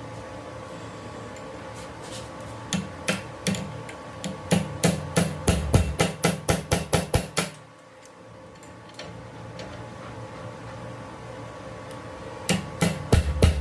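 A hammer strikes metal in repeated blows. A few scattered strikes lead into quick runs of about four a second, with a pause of several seconds between runs, over a steady workshop machine hum.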